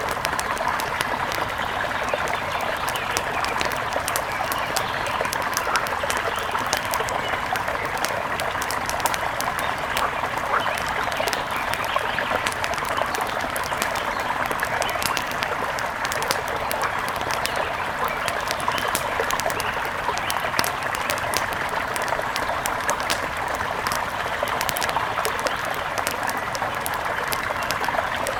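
Steady rush of flowing mountain river water, with many fine sharp clicks scattered through it.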